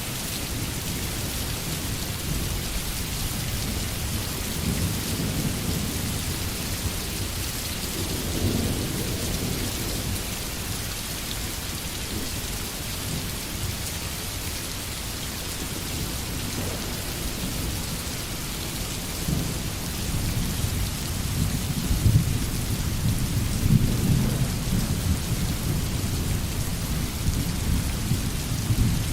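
Steady rain hissing on a surface, with low rolling thunder that swells twice, a few seconds in and again through the second half, where it peaks most sharply.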